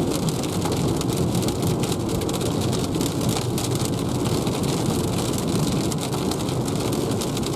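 Heavy rain, big drops, drumming on the windscreen and roof of a moving Renault ZOE electric car, heard from inside the cabin as a steady, dense patter.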